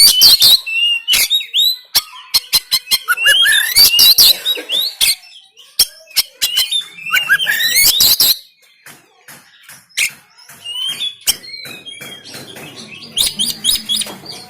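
Oriental magpie-robin (kacer) singing in loud bursts of quick rising whistles mixed with harsh, clicking notes, with short pauses between the phrases.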